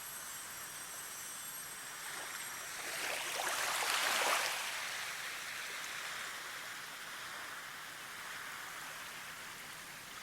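Steady rushing water noise that swells louder a few seconds in and then eases back down.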